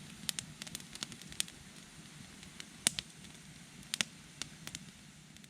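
Freshly lit wood campfire crackling, with sharp irregular pops over a low steady hiss, the loudest pops about three and four seconds in.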